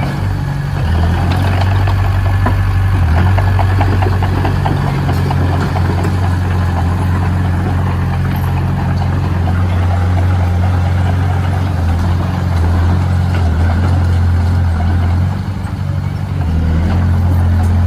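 Heavy diesel engine of construction machinery running steadily with a low hum and a continuous rattle above it. It drops off briefly about fifteen seconds in, then picks up again.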